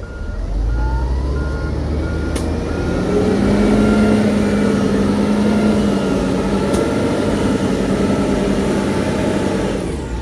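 Reversing alarm beeping at a steady rate over a heavy diesel engine. The engine revs up in the first couple of seconds and then runs steadily under load, while the beeping stops about three seconds in.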